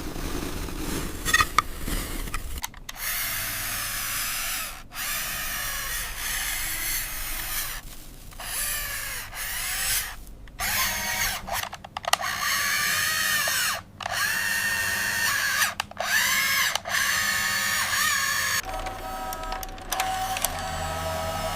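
Small electric motor whining in several stretches, its pitch wavering and bending, stopping and starting again every second or two.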